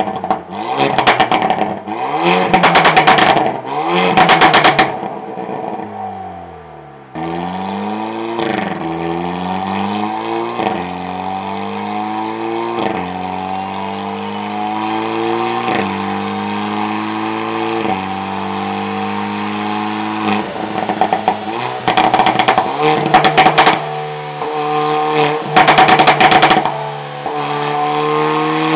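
Hyundai Veloster N's turbocharged 2.0-litre four-cylinder with a wet dual-clutch gearbox on a chassis dyno: a few sharp revs with loud exhaust pops and crackles, then a long run up through the gears, the pitch climbing and dropping back at each quick upshift. Near the end, a burst of loud popping and crackling on the overrun, from a custom ECU tune set for big, long exhaust pops.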